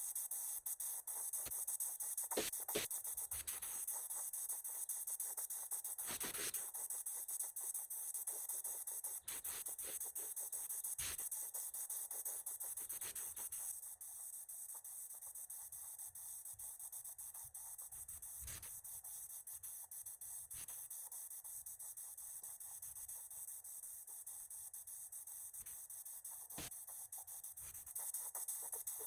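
Steady scraping and rubbing with a few scattered sharp knocks, dropping a little quieter about halfway through.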